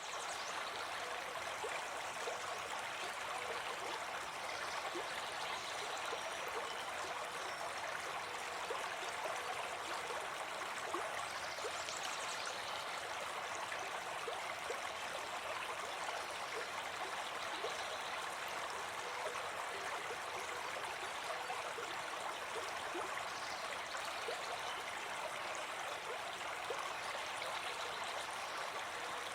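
Brook babbling steadily, an even rush of running water.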